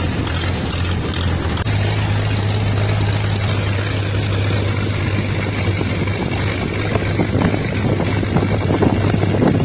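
An engine running steadily with a low hum under a loud rushing noise.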